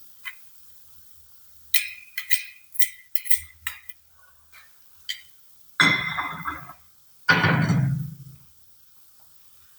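Kitchenware handled during cooking: a quick run of sharp glassy clinks, then two louder, scraping or rustling sounds about a second each.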